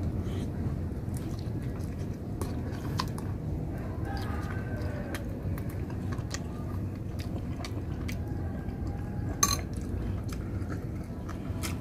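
A person chewing and eating roast duck and rice with his hands, with small mouth and finger clicks and one sharper click late on.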